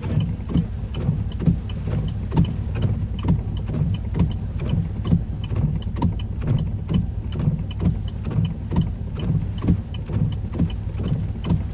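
Inside a stopped pickup truck's cab: a steady low rumble of the idling vehicle, with a regular tick about twice a second.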